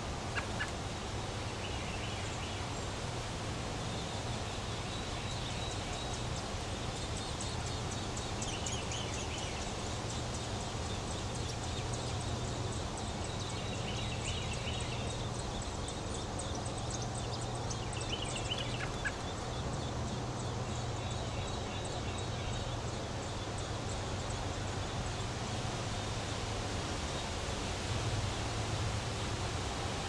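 A few short, high bird calls several seconds apart over a steady outdoor background hum.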